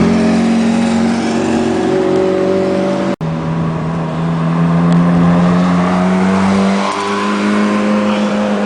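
Exotic sports car engines running at low, fairly steady revs, one clip cutting to another car about three seconds in; the engine note rises slightly late on.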